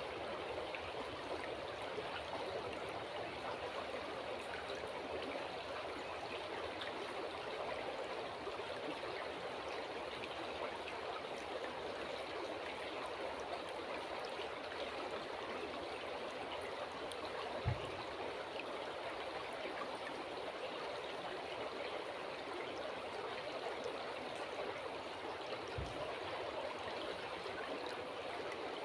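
River water flowing steadily, a continuous even rush. Two brief low thumps, one past the middle and one near the end.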